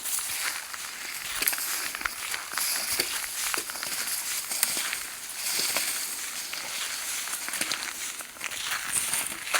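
Footsteps crunching and crackling underfoot, with rustling, as someone walks on at an uneven pace.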